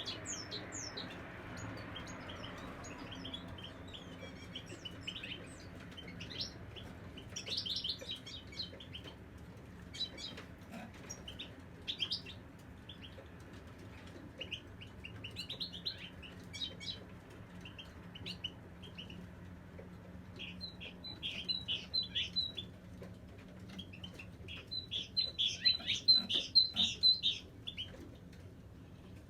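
European goldfinch singing: scattered twittering chirps, building to quick runs of repeated high notes, the loudest run near the end.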